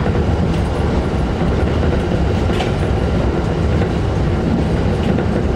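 Steady running noise of a Shinano Railway SR1 series electric train at speed, wheels rolling on the rails, heard from inside the passenger car.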